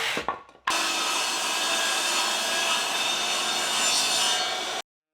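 Power saw cutting through wood, a steady loud rasping noise with a brief break about half a second in, then cutting off suddenly near the end.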